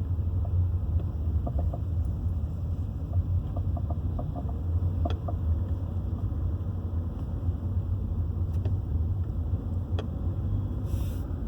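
Vehicle driving straight: the drive makes a steady low rumble, with scattered light clicks and a couple of sharper knocks about five and ten seconds in. The knocking is the noise being demonstrated.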